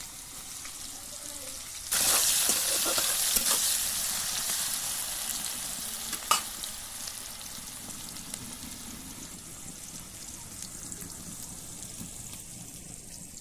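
Sliced onions sizzling in hot oil in a kadai. The sizzle jumps up sharply about two seconds in and slowly dies down, with a few scrapes of stirring and one sharp clack about six seconds in.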